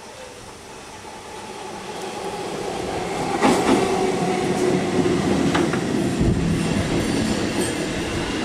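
Electric multiple-unit suburban train approaching and running into the platform, growing steadily louder over the first three seconds or so. From then on the passing coaches give a steady running hum, with wheels clacking over the rail joints.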